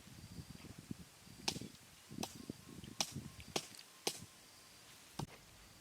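A string of sharp slaps and clicks, about six in all at irregular intervals of half a second to a second, with faint high chirps between them.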